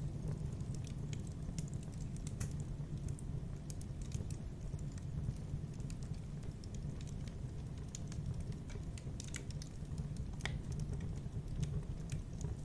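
Wood fire burning in a fireplace, with a steady low rumble of flame and irregular crackles and pops, a few sharper pops standing out.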